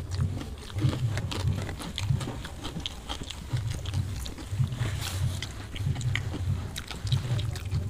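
Two people chewing and smacking their lips on mouthfuls of soft, starchy rice, with repeated moist chomps and small wet clicks. There is light squishing as fingers mix the rice on banana leaves.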